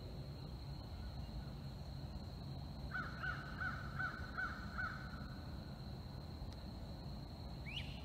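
A bird gives a quick, even series of six short calls, about three a second, over a low steady rumble and a thin, steady high tone. Near the end a second bird makes one brief rising call.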